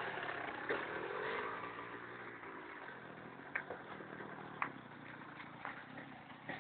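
Enduro motorcycle engine revving up and down and growing fainter, with a few sharp clicks in between.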